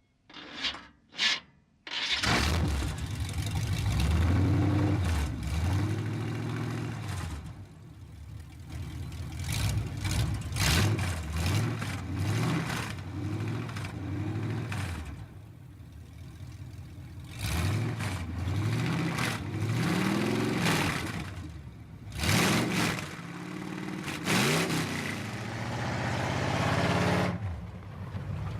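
A few short clicks, then a car engine starts about two seconds in and is revved up and down over and over, with some sharp cracks among the revs.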